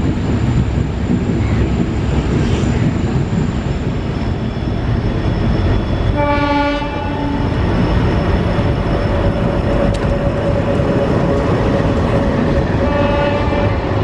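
Train running with a loud, steady rumble. A locomotive horn sounds about six seconds in for over a second, and again near the end.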